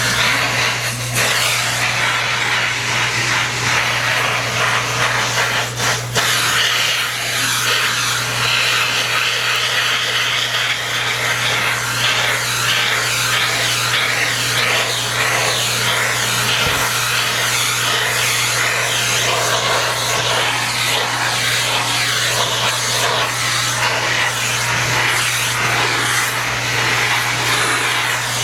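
Vacuum cleaner running steadily, its hiss shifting as the nozzle is worked over a cat's fur.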